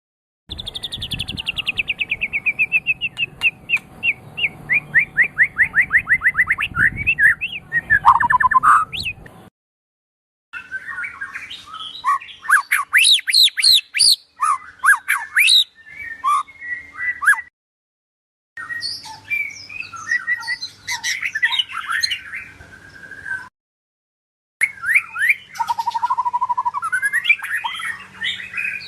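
White-rumped shama (Medan murai batu) singing loud, varied whistled phrases. The first is a long rapid run of notes falling in pitch and ending low. The song stops dead three times, about 10, 18 and 24 s in.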